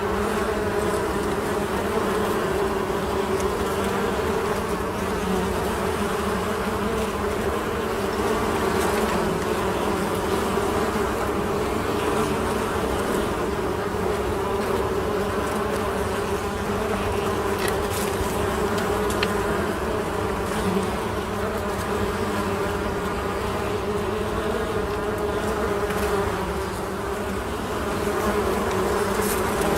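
Honey bees buzzing in a steady, unbroken drone.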